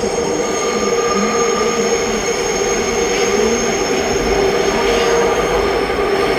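Subway train running along the track: a steady loud rumble of rail noise with a constant mid-pitched hum and several thin, high, steady whines.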